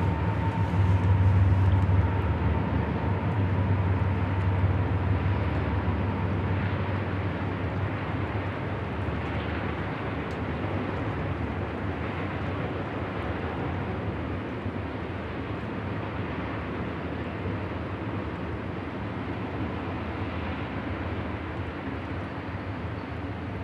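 Freight train of double-stack container cars rolling past: a steady rumble and rattle of wheels on rail that slowly grows quieter. A GE Evolution-series diesel locomotive's low engine drone fades out over the first two seconds.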